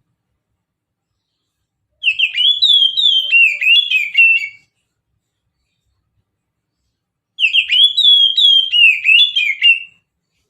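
Oriental magpie-robin (kacer) of the mountain type singing: two phrases of rapid, clear whistled notes sweeping up and down, each about two and a half seconds long, with a pause of a few seconds between them.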